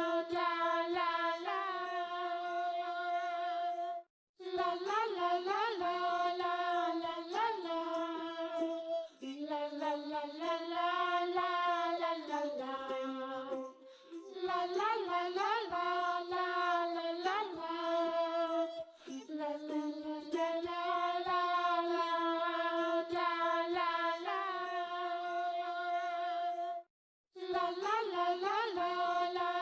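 Background music: a child-like voice singing a melody in long, held notes, with brief gaps about four seconds in and near the end.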